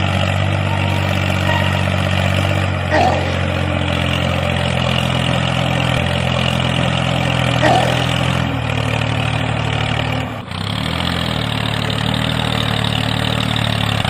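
A vehicle engine running steadily at an idle-like rumble, with two short knocks about three and eight seconds in. About ten seconds in, the engine note dips briefly and climbs back.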